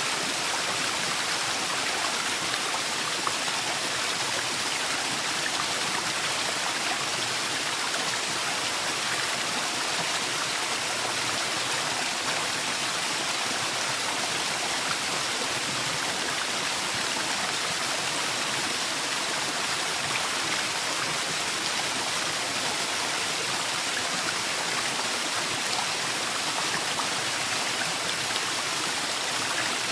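Waterfall in a forest: steady rushing, splashing water with no change in level.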